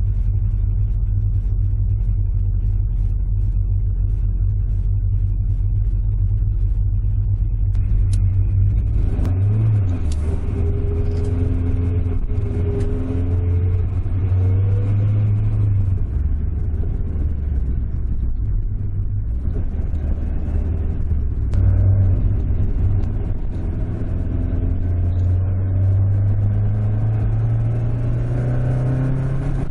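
Toyota AE86's five-valve 4A-G inline-four, fitted with a homemade intake manifold, heard from inside the cabin. It idles steadily, then about nine seconds in the car pulls away. The revs climb and drop with gear changes, then climb again in a long pull near the end.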